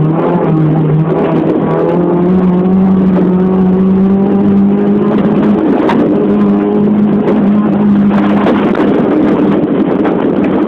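Race car engine running hard at high revs, its note climbing at first and then holding steady, with a short break in the note about six seconds in.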